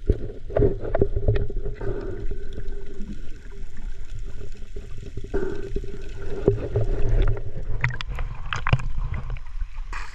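Small boat's motor running with a steady hum that fades and comes back, over a low rumble, with scattered knocks.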